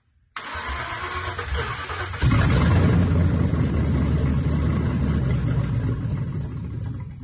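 Mercury Grand Marquis's stock 4.6-litre V8, fitted with a stage 3 cam, cranking on the starter for about two seconds, then catching and running. The sound jumps in loudness as it fires.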